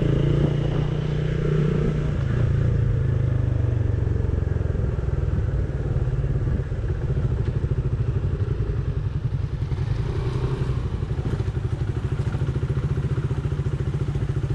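Motorcycle engine running under the rider, heard from the bike itself: the engine note drops about four seconds in as the bike slows, then settles into a slow, even low-speed beat with some clattering over a rough dirt track.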